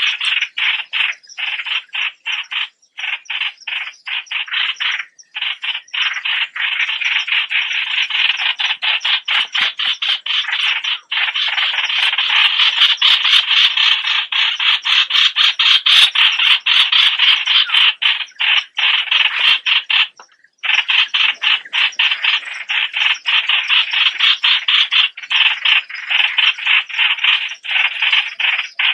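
A small bird known in Thai as the nok plod suan calling in a long, fast series of short repeated notes, several a second, broken by a few brief pauses.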